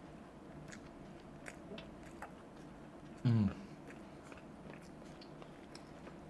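Close chewing of a dabeli, a soft bun filled with spiced masala, roasted peanuts and onion, with many small wet mouth clicks. About three seconds in, a brief low hum from the eater falls in pitch.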